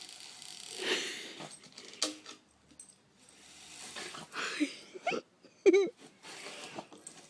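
A dog sniffing and snorting hard in several breathy bursts as she hunts for a chipmunk nest. Near the end comes one short, wavering whine.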